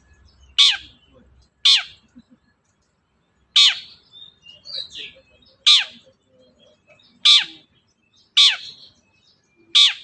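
Long-tailed shrike (cendet) giving a series of loud, harsh calls, each sweeping down in pitch, about seven in ten seconds at uneven gaps. Fainter, softer notes come in about halfway through.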